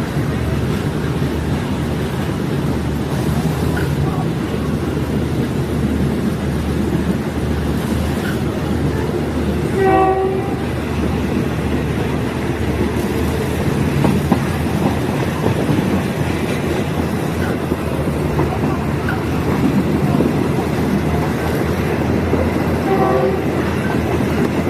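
Diesel multiple unit running along the line with a steady low rumble, sounding two short horn blasts: one about ten seconds in and another near the end.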